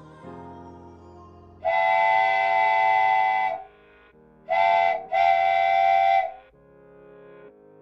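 Electronic steam-whistle sound from a RailKing toy train: a long blast about two seconds in, then a short blast and a long one around five seconds. Softer, steady lower tones continue underneath.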